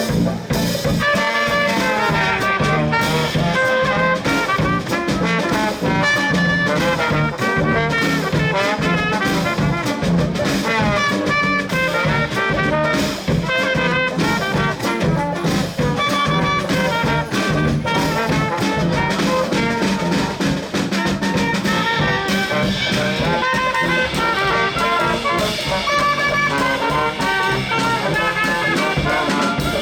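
Swing jazz played by a big band, with a brass section of trumpets and trombones carrying the melody over a steady rhythm section.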